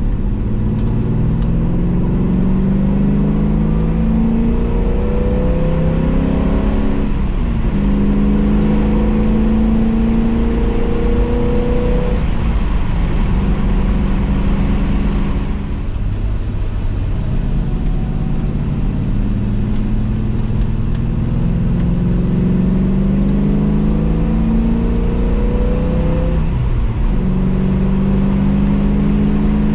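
Triumph TR7's V8 engine heard from inside the cabin while driving, with road and wind noise underneath. The engine note climbs steadily under acceleration and drops back sharply three times, at gear changes.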